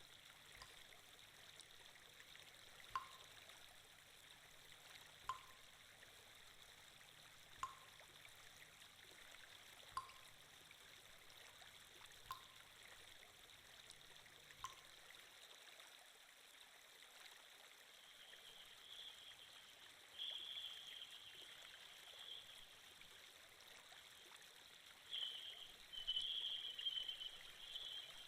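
Faint, steady flowing-water sound effect like a trickling stream. A soft click sounds about every two and a half seconds until about halfway through. Louder patches of trickling water come about 20 seconds in and near the end.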